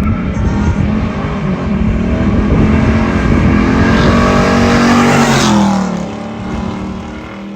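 Monte Carlo SS with a swapped-in 5.3-litre LS V8 and stage 2 cam, accelerating as it approaches and passes. The engine note builds to its loudest about five seconds in, then drops in pitch and fades as the car drives away.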